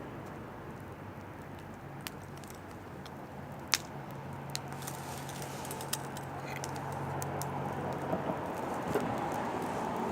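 Oak firewood burning in an open fire, crackling with scattered sharp pops, the loudest a little under four seconds in. Beneath it is a steady low hum and hiss.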